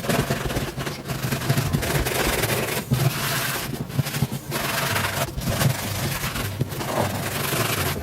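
A brush scrubbing a sneaker's upper during cleaning: a continuous scratchy rubbing, broken by brief pauses between strokes.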